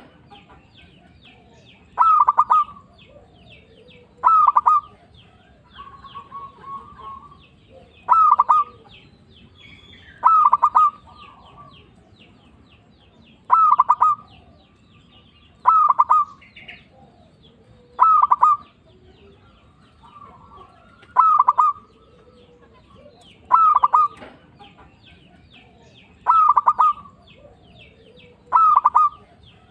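Zebra dove (perkutut) singing its cooing song over and over, a loud call every two to three seconds, eleven in all, with softer coos between them. Faint high chirping runs underneath.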